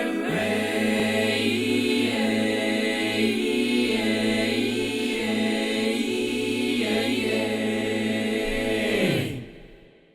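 A mixed vocal octet holds a long closing chord over a steady low bass note, with the upper voices shifting pitch a few times. The voices cut off together about nine seconds in and the reverberation dies away to silence.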